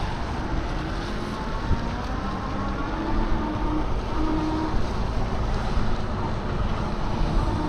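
Wind buffeting the microphone with low road rumble while riding a bicycle, and a faint steady whine running underneath.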